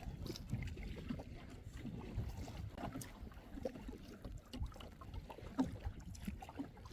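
Kayak paddling on a lake: the paddle blade dipping and pulling through the water, with small irregular splashes and drips, over a low rumble.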